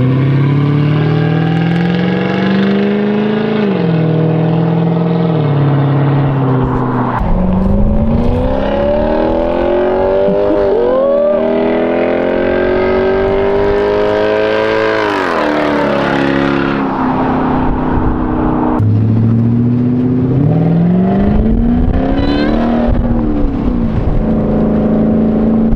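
Lexus SC400's 1UZ V8 through a freshly built straight-piped stainless exhaust, loud, revving up under acceleration. Its pitch climbs and drops several times as it pulls and lets off, with one long climb through the middle.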